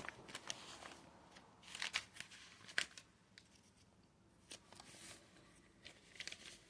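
Faint rustles and light, scattered taps of paper cards being handled, a few at a time with short gaps between.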